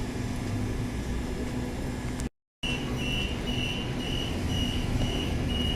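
Steady hum and low rumble inside an electric passenger train. After a brief cut, a high electronic beep repeats about twice a second over the hum.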